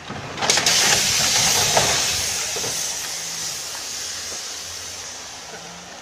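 A sudden rush of loud hissing, like air escaping, with a few knocks at its start about half a second in. The hiss then fades slowly over the next few seconds.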